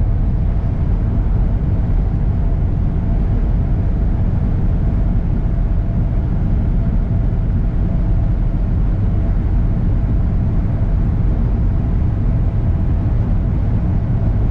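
2021 Kenworth W900 semi truck on the road, its diesel engine drone mixed with tyre and wind noise, steady and unchanging.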